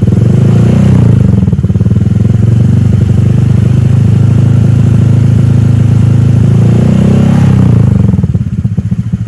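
Honda Vario 125 scooter's single-cylinder four-stroke engine breathing through a short stainless PDW Racing header and silencer. It revs up from idle, is held at high revs for several seconds, then drops back to a pulsing idle near the end.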